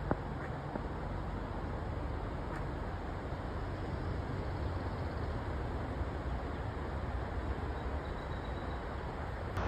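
Steady rush of road traffic from morning commuters heard from the trail.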